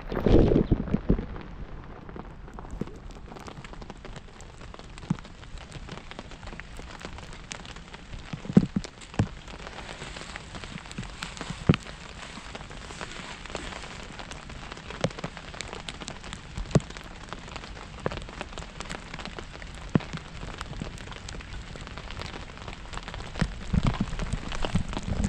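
Steady rain falling, with many individual drops ticking sharply on a nearby surface. A few louder knocks stand out, the loudest about a second in and again near the end.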